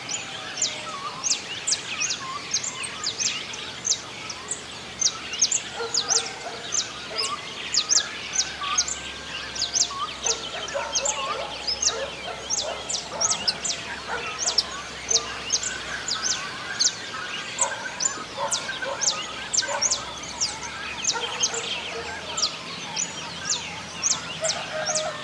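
Dawn chorus of many birds singing at once: a dense, unbroken run of sharp, high, falling chirps, with lower calls from other birds scattered among them.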